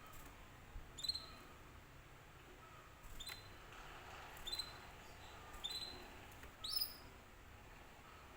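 Canary giving short, sharp high chirps, five of them spaced a second or so apart, the last a little higher than the rest.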